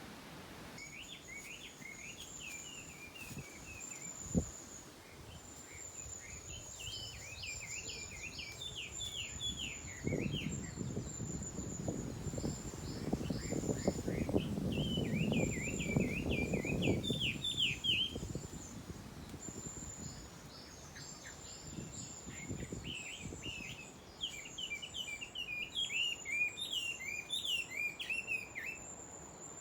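A songbird singing repeated phrases of quick falling chirps, in four bouts, over a thin steady high buzz. A louder stretch of low rustling and scuffing comes in the middle, with a single thump about four seconds in.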